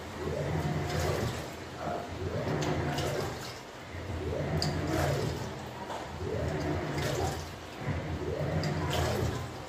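Samsung 10 kg top-load washing machine agitating water during a tub-clean (descaling) cycle. The drive turns the tub one way, then the other, about every two seconds, and each stroke is a motor hum that rises and falls over water sloshing.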